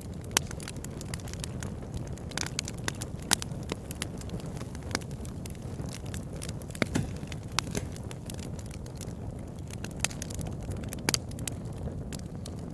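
Campfire burning: a steady low rumble of flame with irregular sharp crackles and pops from the burning wood.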